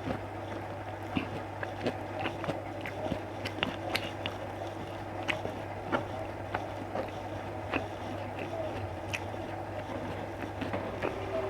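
A person eating close to the microphone: chewing with frequent, irregular sharp clicks and smacks from the mouth, over a steady low hum.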